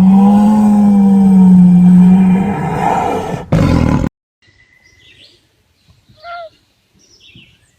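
A large animal's loud roar, held on one low pitch for about two and a half seconds, then a harsher burst that cuts off abruptly about four seconds in. Faint chirping bird calls follow.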